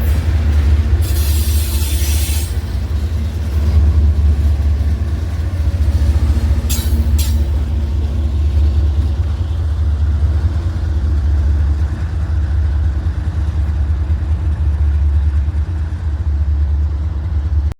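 Steady low rumble of a diesel train engine. A hiss lasts about a second and a half starting about a second in, and there are two sharp clicks around seven seconds in.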